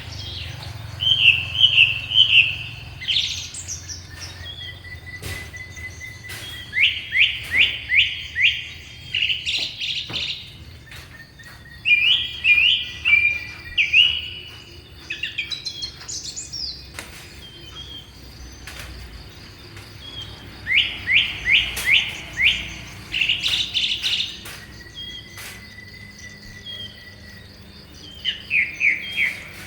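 Songbirds singing: repeated phrases of quick chirping notes every few seconds, with a few long, thin, steady whistles in between.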